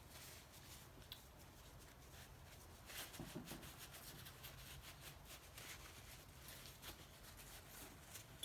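Faint rustling and scattered light clicks of hands handling things, over a low steady hum, with a slightly louder rustle about three seconds in.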